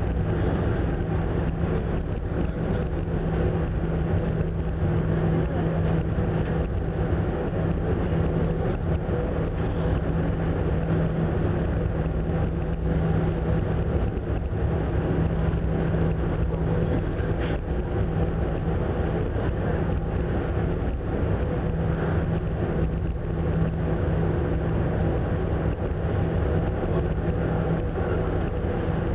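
Ferry Ogasawara Maru underway: a steady, unchanging low engine drone with an even rushing noise over it.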